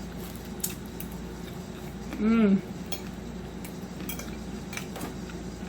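Eating utensils clicking and scraping lightly against a plate or food container, several small separate clicks, during a meal. About two seconds in there is a short voiced sound from the eater.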